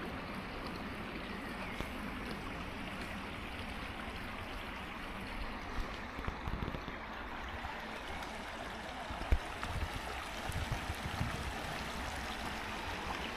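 Stream water running steadily, with a few short low knocks in the second half.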